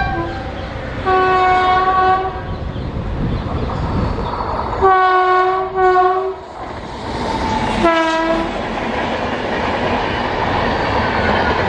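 Electric locomotive hauling an express passenger train past at speed, sounding its horn several times: a short toot at the start, a long blast about a second in, two blasts in quick succession around five seconds in and a short one near eight seconds. Under the horn the coaches rumble and clatter steadily over the track.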